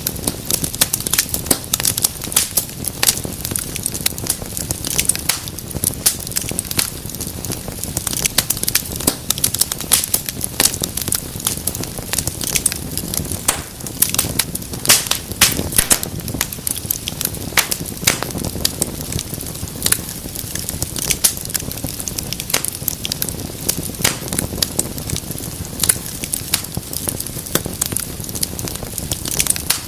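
Wood fire burning in a fireplace, crackling with many sharp irregular pops over a low steady rumble of the flames.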